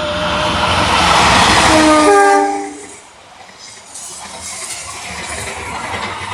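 Train passing close at speed, sounding its horn. The horn's pitch drops as the locomotive goes by, and the rush of noise cuts down sharply about two and a half seconds in. A steadier rumble of the carriages rolling over the rails follows.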